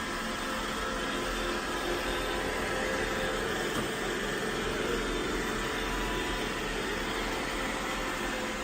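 iRobot Roomba i7+ robot vacuum running: the steady whir of its vacuum motor and brushes, with a few faint steady whining tones. A light tick sounds about four seconds in.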